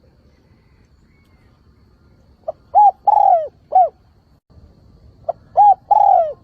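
Spotted dove cooing: two phrases of several short coos, about three seconds apart.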